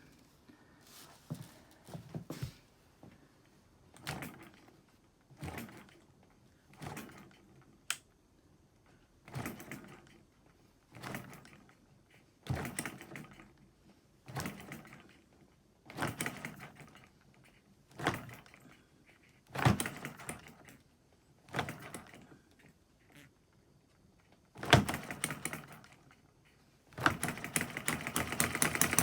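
Miniature hit-and-miss model engine being started: about fifteen short separate bursts of mechanical clatter, one every second and a half to two seconds. Near the end it catches and runs with a fast continuous clatter.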